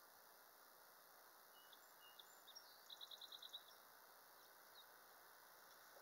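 Near silence with faint outdoor hiss; a small bird chirps a few times, then gives a quick trill of about eight high notes about three seconds in.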